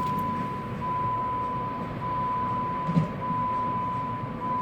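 Car engine idling just after being started following an oil change, with an electronic warning chime sounding over it in long, steady high beeps about every 1.2 seconds.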